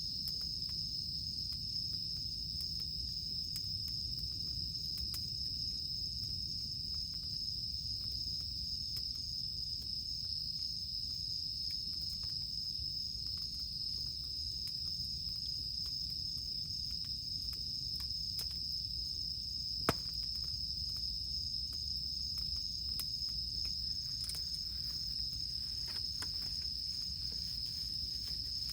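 Cicadas droning steadily at a high pitch over the faint, scattered crackle of a wood campfire, with one sharper pop from the fire about two-thirds of the way through.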